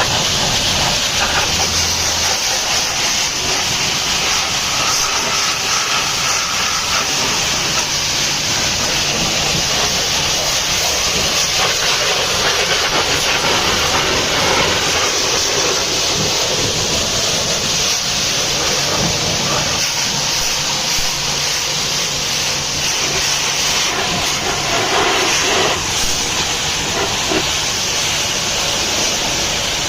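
Water jet spraying a truck during washing, a steady loud hiss.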